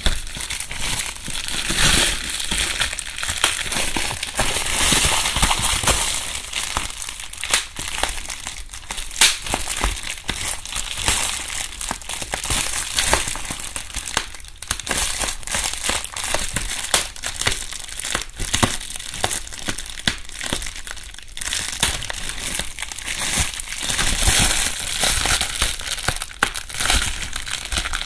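Bubble wrap being crumpled and rustled by hand in a dense, continuous run of crackles and small pops, recorded binaurally close to the microphones.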